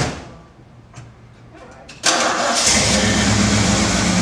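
A sharp knock right at the start. About two seconds in, the 1973 Ford Bronco's Ford 302 V8 with dual exhaust fires up at once and settles into a steady idle.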